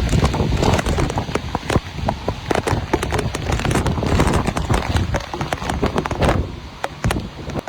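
Heavy thunderstorm rain pelting a hard surface close by: a dense patter of sharp drop impacts over a low rumble, starting suddenly and easing off near the end.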